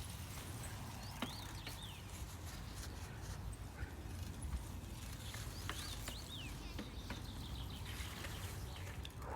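Outdoor ambience: a steady low rumble with a few short, faint bird chirps that dip in pitch, heard twice, and scattered faint clicks.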